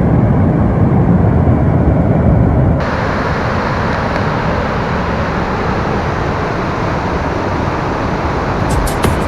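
A vehicle driving: a steady, low rumble of engine and tyres with wind noise. About three seconds in, the sound changes abruptly and becomes a little quieter and thinner.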